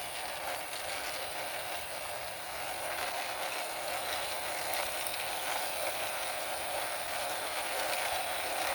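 A plastic toy tanker lorry pushed by hand, its wheels rolling and rattling steadily across the floor.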